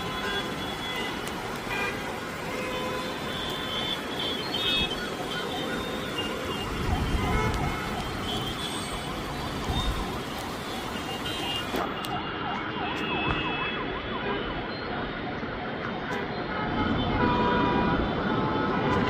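Jammed road traffic: engines and tyre noise with many vehicle horns honking on and off.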